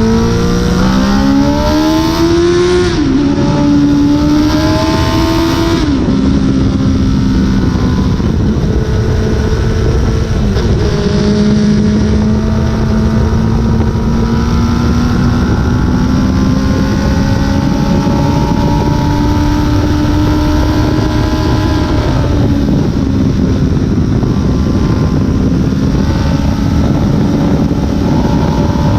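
Suzuki Hayabusa inline-four motorcycle engine and exhaust under acceleration: the pitch climbs fast and falls back at upshifts about three and six seconds in, then runs on at a steadier, slowly rising pitch with further shifts around ten and twenty-two seconds.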